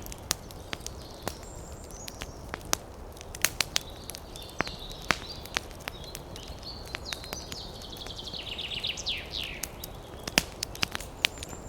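Wood fire crackling in a fireplace: irregular sharp pops and snaps over a steady low rumble. High thin whistling notes come and go through the middle, ending in a quick run of falling notes a little over eight seconds in.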